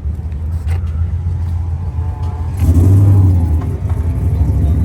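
Car engine rumbling, swelling louder for about a second midway through.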